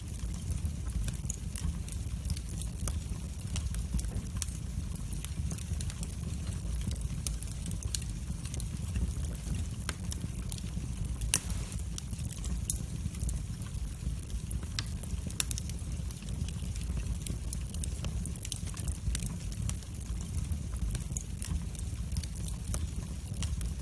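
Wood fire burning in a fireplace: a steady low rumble of the flames with frequent small crackles and pops, one sharper pop about halfway through.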